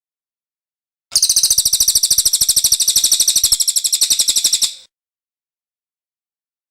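Cililin songbird giving one fast, even, high-pitched trill that starts about a second in and lasts nearly four seconds, with dead silence on either side, as in an edited song recording used for masteran.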